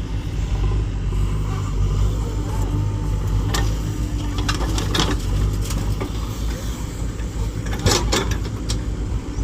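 Powertrac Euro 50 tractor's diesel engine running steadily under load, pulling a fully loaded trolley. A few sharp clatters sound about halfway through and again near the end.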